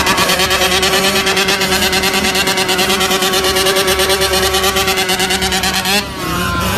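An engine running at a steady speed with a fast, even pulsing beat. About six seconds in it cuts abruptly to a different, quieter engine sound.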